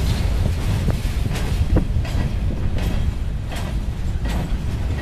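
Freight train of covered steel-coil cars rolling past close by: a steady low rumble of wheels on rail, with irregular clicks and clanks from the wheels and cars.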